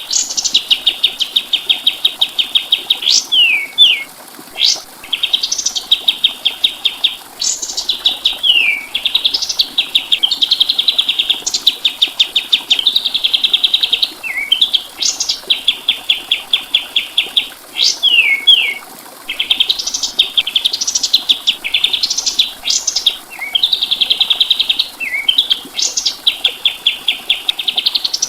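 Kapas tembak songbird singing continuously: long fast rattling trills held at one high pitch, broken every few seconds by quick sharp notes that sweep steeply down.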